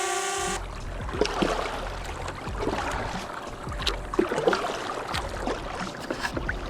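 Drone propellers whining in a steady multi-tone hum that cuts off abruptly about half a second in, followed by water splashing and lapping with scattered light knocks around a kayak.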